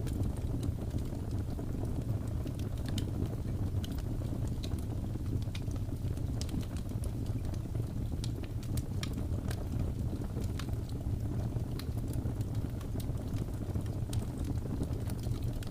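Wood fire crackling, with scattered sharp pops and snaps, over a steady low rush of blizzard wind.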